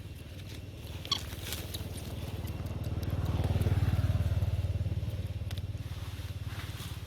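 A motor vehicle's engine passing by, growing louder to a peak about four seconds in and then fading. A short high chirp sounds about a second in.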